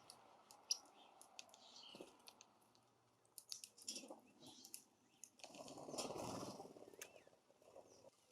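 Faint scattered clicks and taps of birds feeding at a jelly feeder, with a soft rustle swelling up about two-thirds of the way through.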